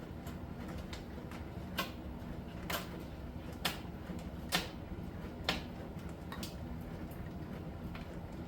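Miele T1 heat-pump dryer running its Soft Steam cycle in the steam saturation stage: a steady low hum of the machine with sharp clicks about once a second as the tumbling load knocks against the drum.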